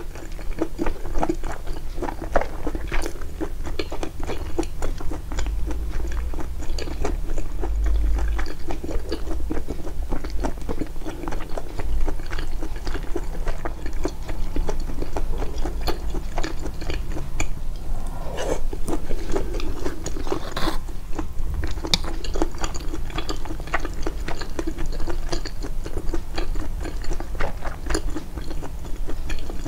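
Close-miked chewing and biting of food: a dense run of small wet clicks and crunches, played up in the editing.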